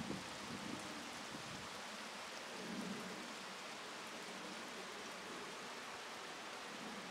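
Steady rain falling, an even hiss of drops pattering on the ground and surfaces around.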